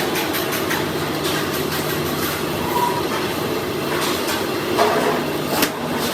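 Steady machine rumble with a low hum and scattered clatter, broken by one sharp knock about five and a half seconds in.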